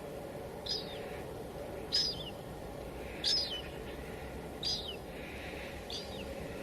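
A bird giving a short, high, falling call five times, about every second and a half, over a steady hiss of white noise.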